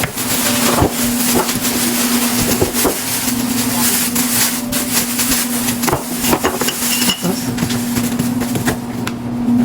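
Groceries being handled and put away: irregular knocks, clatters and rustling of packages and containers, over a steady hum.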